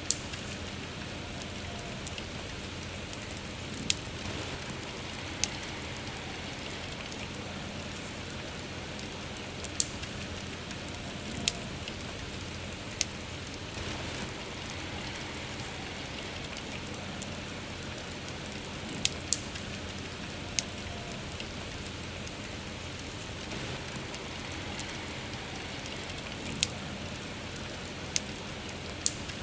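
Steady rain falling, with a wood fire crackling: sharp single pops every few seconds.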